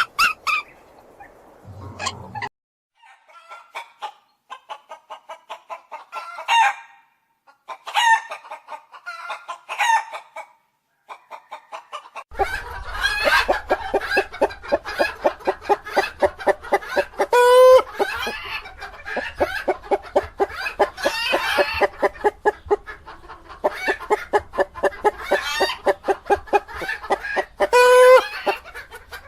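Chickens clucking in quick runs of short calls, growing denser and louder about twelve seconds in, with two louder drawn-out calls standing out later.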